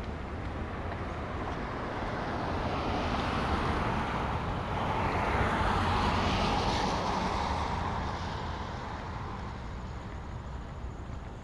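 A car passing on a wet road: its tyre hiss swells to a peak about six seconds in, then fades away.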